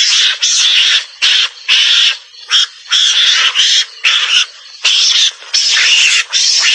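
Javanese mongoose (garangan) calls from a lure recording. A string of harsh, hissing chatters comes in quick bursts, each under a second, with brief gaps between them.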